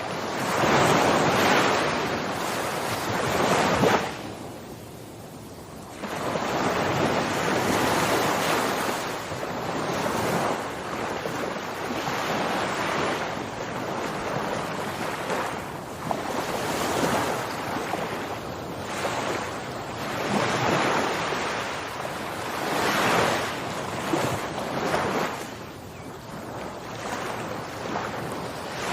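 Waves washing onto a shore, a rush of water that swells and fades every few seconds, with a short lull about four seconds in.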